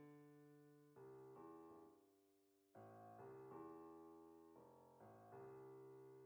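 Quiet background music: soft piano chords, each struck and left to ring and fade before the next.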